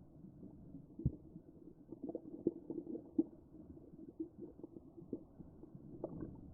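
Muffled sound through a waterproof camera housing in the sea: a low rumble with irregular dull knocks and bumps, the sharpest about a second in.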